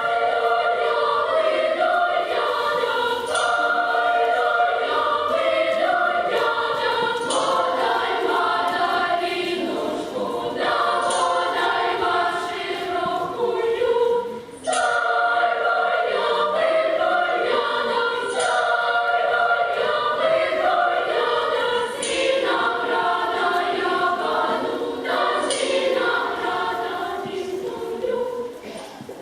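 Group of female voices singing a Russian khorovod (round-dance) folk song together, with a sharp tap about every three and a half seconds.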